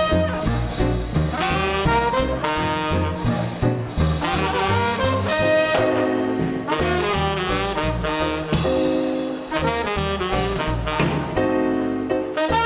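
Small-group swing band playing live: saxophone and trumpet lines over piano, bass and drums keeping a steady beat.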